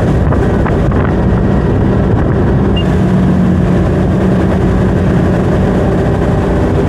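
Tow boat's engine running steadily at speed, with wind noise on the microphone.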